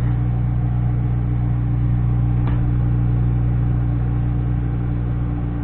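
Microwave oven running with a steady electrical hum while heating a bar of Ivory soap; one faint tick about two and a half seconds in.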